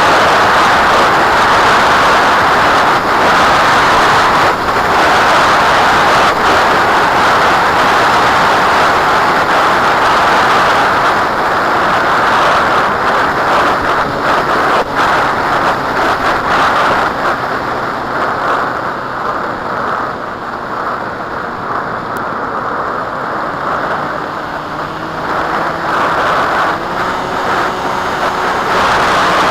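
Strong wind rushing over the microphone, a loud steady noise that eases somewhat past the middle.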